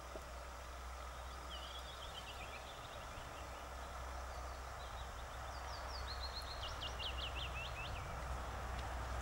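Small songbird singing: a short run of quick falling notes about two seconds in, then a longer phrase of quick falling notes from about halfway to near the end, over a steady low hum.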